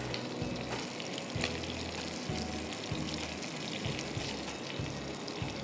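Fish sizzling in a hot pan under butter and sautéed vegetables: a steady crackling hiss.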